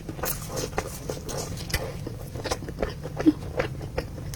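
A person chewing a soft, sticky rice ball filled with braised pork and shiitake, with many small irregular mouth clicks and smacks.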